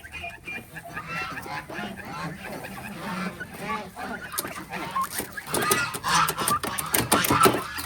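A flock of farm birds calling, many short calls overlapping, louder in the second half. Sharp knocks mix in with the calls near the end.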